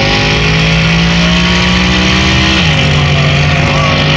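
Twin-turbocharged Ford Coyote 5.0 V8 in a Mustang at full throttle, heard from inside the cabin: the engine pitch climbs steadily, drops sharply about two and a half seconds in as it shifts up a gear, then pulls hard again.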